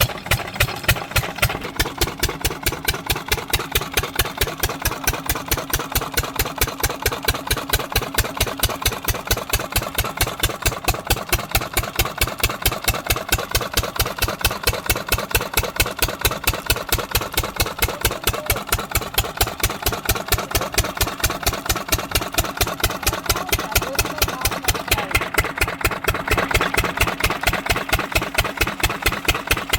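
12 HP single-cylinder diesel engine of an irrigation water pump set running at a steady speed, with an even, rapid chugging beat.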